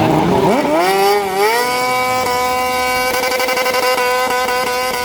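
Drag motorcycle engine revving up sharply within about a second and a half, then held at steady high revs: the throttle held wide open for a burnout to heat the rear tyre.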